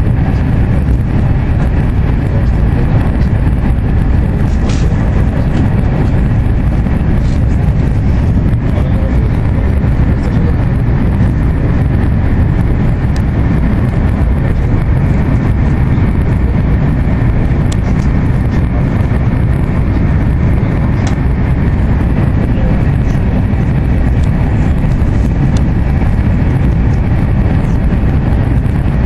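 Steady low rumble and rushing noise inside the passenger cabin of an AVE high-speed train running at speed.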